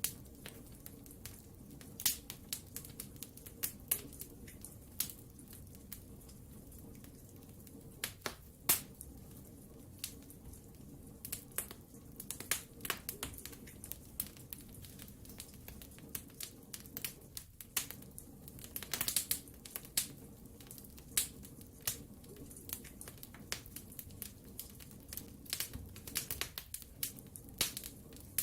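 Wood fire burning in a fireplace: irregular sharp crackles and pops, some in quick clusters, over a steady low rumble of the flames.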